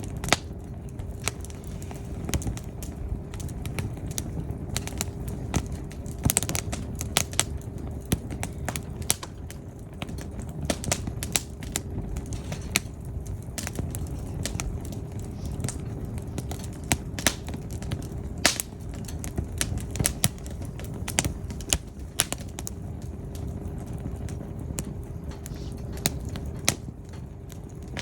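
Firewood burning: irregular sharp crackles and pops, several a second at times, over a low steady rumble of the fire.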